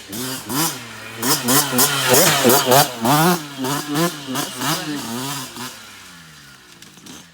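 Dirt bike engine revving up and down in quick repeated throttle blips, then easing off and falling away near the end.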